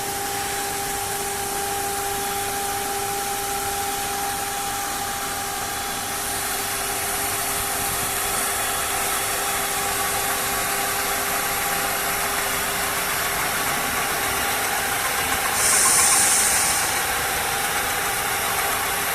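9 kW spindle of a 1325 CNC router running at speed, with a steady whine over a noisy mechanical rush that thickens about six seconds in. A short hissing burst comes near the end.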